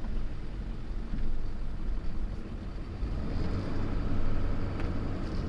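Pickup truck driving: steady low engine and road rumble from inside the cab.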